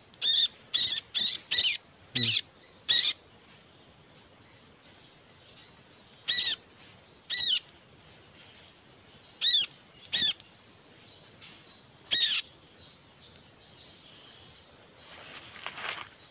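A steady, high-pitched insect drone from cicadas and crickets, with a small bird giving about a dozen short chirps. They come in a quick run in the first few seconds, then singly every second or two. Soft rustling follows near the end.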